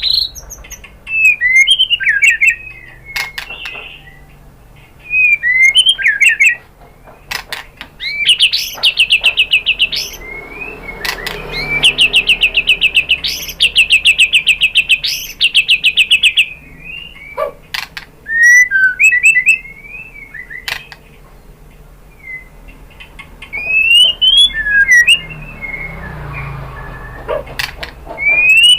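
White-rumped shama singing: loud whistled phrases broken by sharp clicking notes, with two long rapid trills of evenly repeated notes lasting a few seconds each, about a third of the way in and near the middle.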